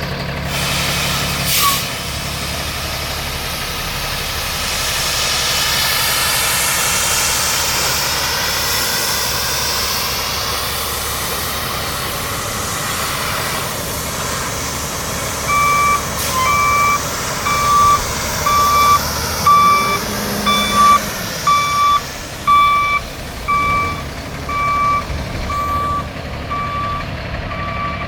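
2016 Peterbilt 337 truck's diesel engine running, with a whine that rises and falls in pitch during the first half. About halfway through, the backup alarm starts, beeping steadily a little faster than once a second as the truck reverses.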